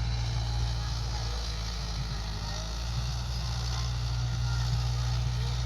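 Tractor engine running steadily under load, pulling a rotavator through soil, a constant low hum with no change in pitch.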